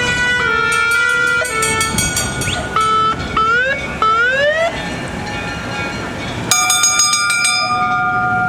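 Vintage fire engines sounding their warning horns and sirens. First a two-tone horn alternates between a high and a low note, then come two short rising siren whoops, and about two-thirds in a long steady horn blast.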